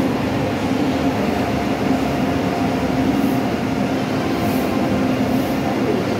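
Indian Railways passenger train running: a steady rumble with a constant low hum.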